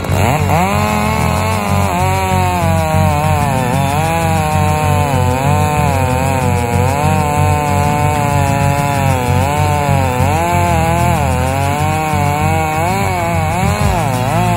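Chainsaw running at high revs, its pitch rising and falling again and again as it cuts, over background music with a steady beat.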